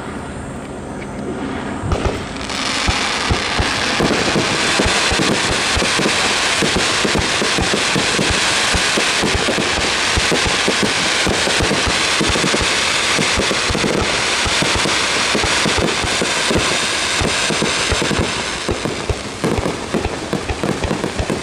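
Aerial fireworks display: from about two seconds in, a dense, unbroken barrage of rapid pops and bangs from launches and bursting shells, thinning near the end into separate bangs.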